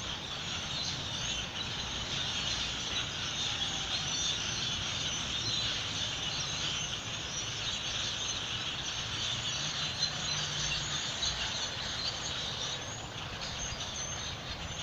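A very large flock of birds calling all at once: a dense, continuous chatter of many small high chirps, thinning a little near the end.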